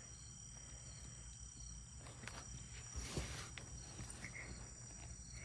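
Faint, steady high-pitched chorus of insects, with a brief rustle about three seconds in.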